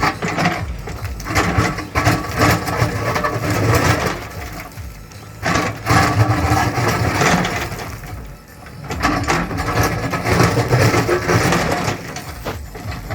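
JCB 3DX Plus backhoe loader's diesel engine working under load while hard digging, with crushing and scraping of soil and stone at the bucket. The load rises and falls in cycles, easing off briefly about five seconds in and again near the nine-second mark.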